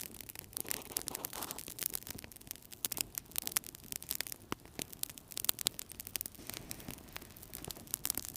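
Wood fire crackling in a fireplace: irregular snaps and pops come several times a second over a steady hiss of burning.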